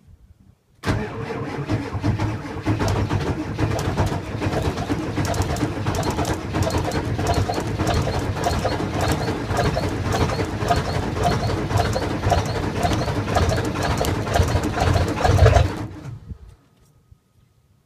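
Ford 7.3 Powerstroke V8 turbo diesel being cranked by its starter in a cold start after a night at zero degrees. It cranks with a rapid pulsing for about fifteen seconds without settling into a run, then stops suddenly: a hard cold start.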